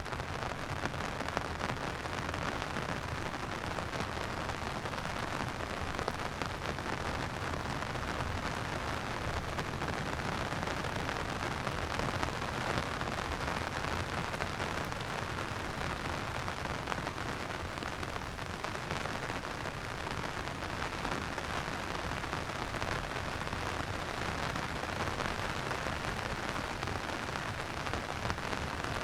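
Steady rain falling: a continuous hiss dotted with many small drop ticks.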